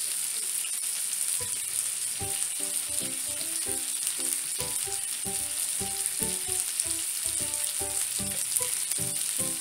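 Salmon fillets frying in oil in an electric skillet: a steady sizzle. A soft run of short pitched notes plays over it.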